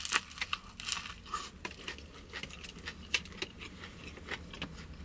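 A bite into a bánh mì followed by close-up chewing: irregular small crunches and crackles of the crusty baguette.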